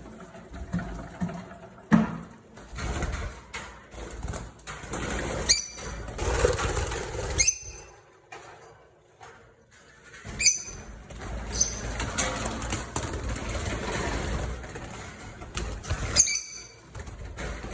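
Lovebirds in an aviary: a handful of short, shrill chirps over constant wing flapping, scrabbling and rustling, with a brief lull about halfway through.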